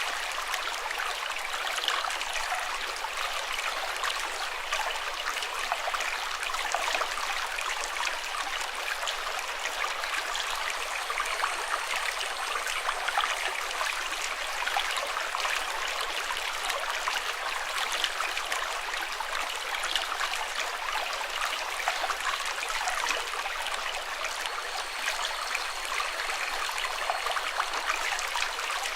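Water flowing steadily over stones in a small stream, an even babbling rush with fine splashy crackle and no deep rumble.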